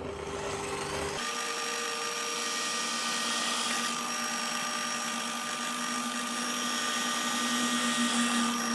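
Electric drill running steadily at speed, drilling small holes through a folding knife's handle spacer; its steady whine shifts slightly about a second in and stops near the end.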